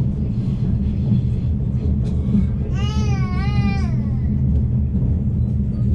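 Steady low rumble of the Afrosiyob high-speed train running, heard from inside the carriage. About three seconds in, a brief high-pitched wavering sound cuts in over it for a little over a second.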